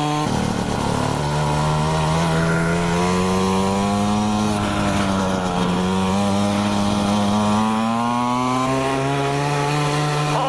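Mini moto's small two-stroke engine running hard under way, its pitch rising and falling with the throttle. It drops sharply about a third of a second in, climbs, dips around the middle, then climbs again and holds steady near the end.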